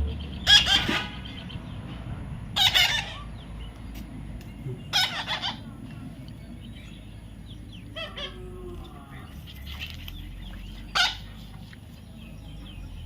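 Baby parrot squawking: about five short, harsh calls a few seconds apart, the first ones the loudest.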